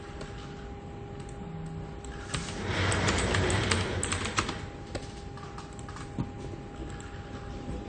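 Computer keyboard typing in an office, with a fast, dense run of keystrokes, the loudest part, from about two to four and a half seconds in, then scattered single keystrokes. A steady low hum runs underneath.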